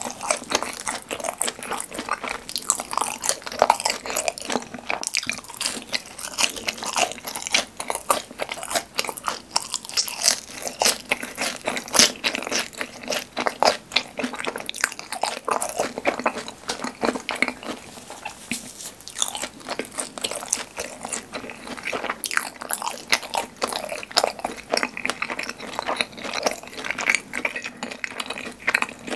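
Crunching and chewing of crispy seasoned fried snack sticks dipped in a creamy white sauce: a steady run of crackly crunches, bite after bite.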